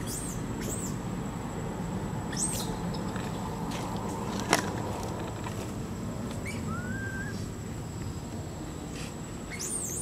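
Birds chirping in short, high, arched calls, a few times, over a steady low background rumble; one sharp click sounds about halfway through.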